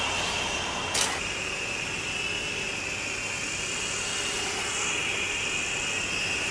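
Small coreless DC motors spinning propellers, a steady high whine, with a single click about a second in.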